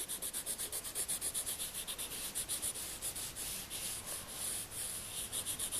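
A marker scribbling back and forth on paper, colouring in an area with quick, even strokes, several a second.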